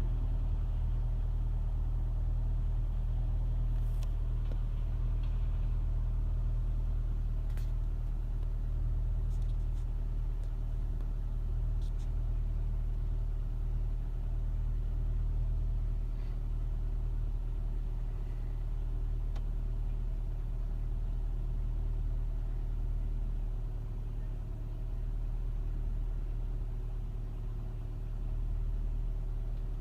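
A 2007 Nissan Altima's engine idling after a cold start, with a steady low hum and a few faint clicks scattered through. The owner presents it as a rough idle at cold start.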